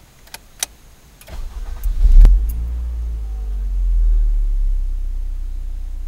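2011 Scion tC's 2.5-litre four-cylinder engine, breathing through an Injen short ram intake, starting: two sharp clicks, about a second of cranking, then it catches with a loud flare about two seconds in and settles into a fast idle that swells slightly and eases down.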